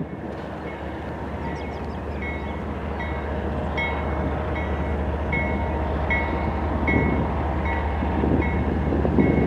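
A train rumbles steadily, slowly growing louder, while a railroad crossing bell dings evenly about once every 0.7 seconds.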